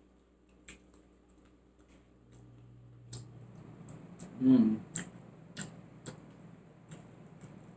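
Close-up eating sounds: a scatter of short wet mouth clicks and smacks while chewing, with a brief murmur of voice about four and a half seconds in.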